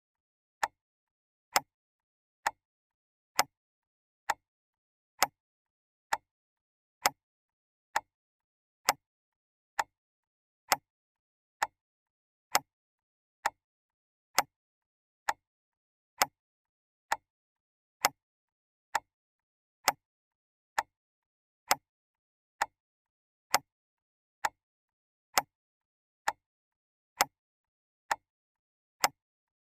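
Clock ticking steadily, a little faster than one sharp tick a second, with dead silence between ticks.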